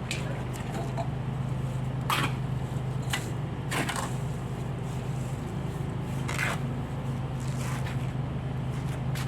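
A steady low hum runs underneath a few separate knocks and clacks of hard objects being handled, four of them spaced a second or more apart.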